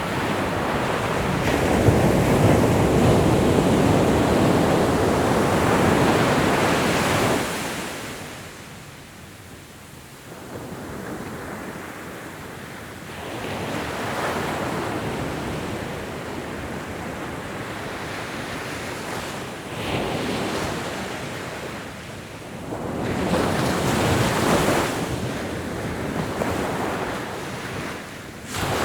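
Ocean waves breaking and washing on the shore: a long surge that falls away about seven seconds in, a quieter lull, then smaller surges and another breaking wave near the end.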